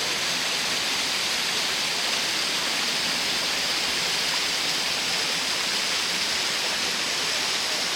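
Steady rushing roar of a waterfall, even throughout, with no voices over it.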